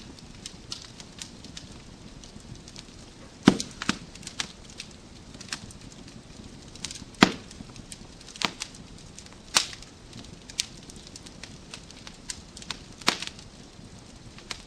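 Wood fire crackling in a fireplace: a steady low hiss with irregular sharp pops and snaps from the burning logs, several of them louder, about a dozen through the stretch.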